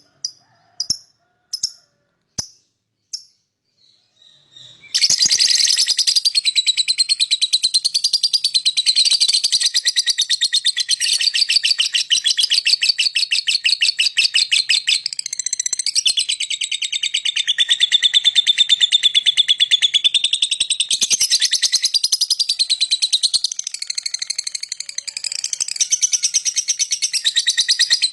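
Lovebird calling: a few short, separate high chirps, then from about five seconds in a long, unbroken run of very rapid chattering notes, the long 'ngekek' song.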